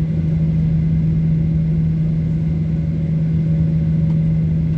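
Boeing 737-800 cabin with the CFM56 engines running: a steady drone over a strong, even low hum, unchanging in level.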